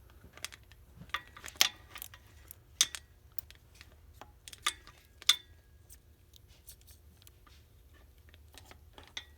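Scattered metallic clicks and clinks of a socket on a universal joint and extension knocking against the engine parts as it is worked up toward the manifold nuts, with a brief faint ring about five seconds in.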